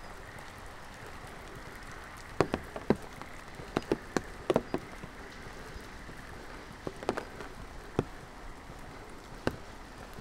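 Steady rain hissing, with louder single drops tapping at irregular moments, a cluster of them from about two to five seconds in and a few more near the end.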